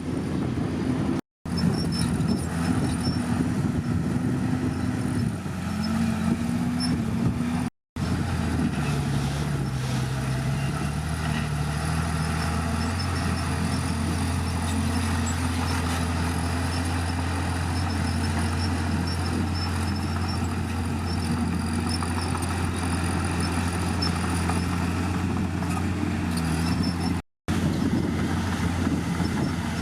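Bulldozer's diesel engine running steadily, its speed stepping up and down. The sound breaks off for an instant three times.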